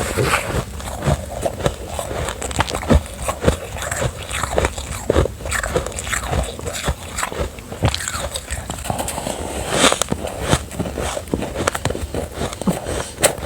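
Close-miked bites and chewing of refrozen soft ice: a dense, irregular run of sandy crunches.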